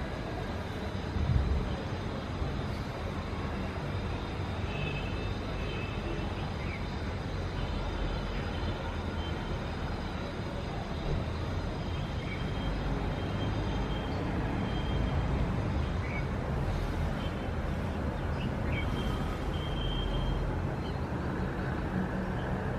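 City street traffic ambience: a steady rumble of passing road vehicles, with a brief knock about a second in.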